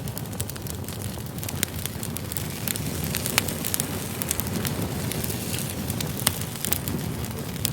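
Wood campfire burning: a steady low rush of flames with frequent sharp crackles and pops from the burning firewood, two of them louder, about three and a half and six seconds in.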